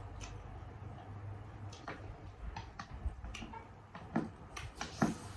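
Eating sounds at close range: a string of irregular short, sharp clicks and crunches, growing more frequent in the second half, the loudest about four and five seconds in.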